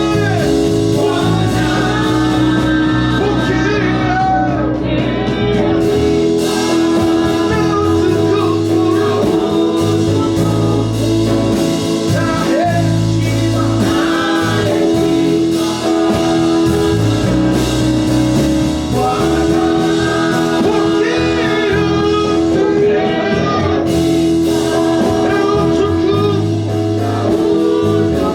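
Live gospel praise and worship music: a voice singing over a band, with a long held chord and steady bass notes underneath.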